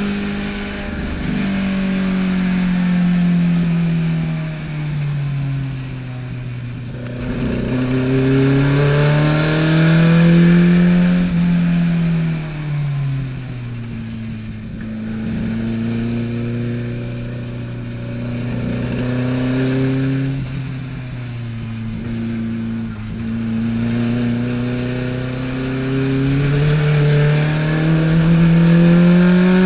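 Tuned Alfa Romeo GT Junior twin-cam four-cylinder engine, heard from inside the cabin, its pitch climbing under acceleration and dropping as the driver lifts off, several times over.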